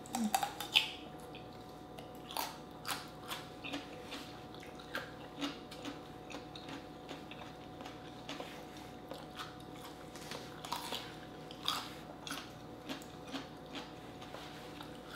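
Close-up eating sounds: crisp bites and chewing of whole raw red radishes, in irregular short crunches every second or so, with softer chewing between them.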